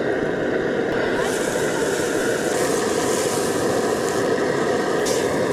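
Duck breasts frying in a pan with a steady, even sizzle.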